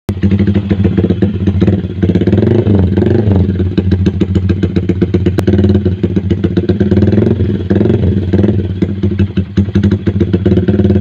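Yamaha MX King 150's single-cylinder four-stroke engine running loud through its exhaust, with a choppy pulse, its pitch rising and falling a few times as the throttle is blipped.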